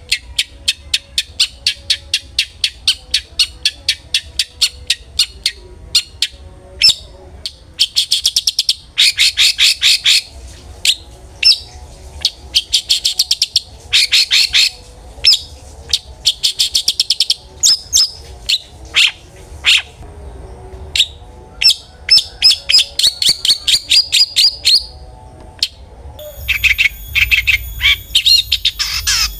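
Long-tailed shrike (cendet) singing: fast trains of sharp, repeated chattering notes, several a second, in bursts broken by short pauses.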